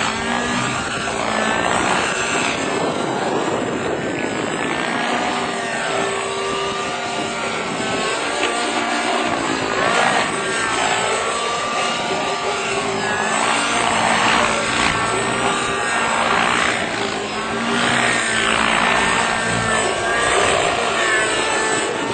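Helicopter running, a loud continuous noise with wavering tones that swell and fade every second or two.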